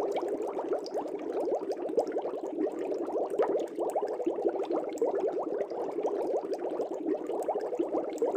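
Aquarium air bubbles rising and burbling continuously in a fish tank: a dense, steady stream of small bubbling blips and pops.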